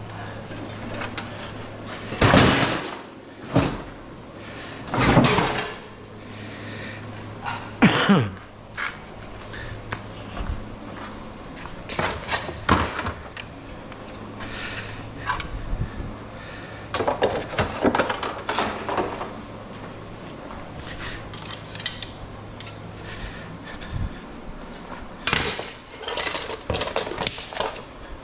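Scrap metal being handled in a teardown: irregular clanks, knocks and scraping of metal parts, with a few louder strikes several seconds apart. A low steady hum runs underneath and stops about three-quarters of the way through.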